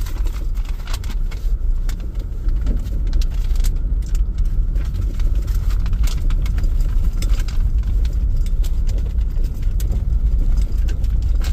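Steady low rumble of a car driving, heard from inside, with small rattles and clicks over it.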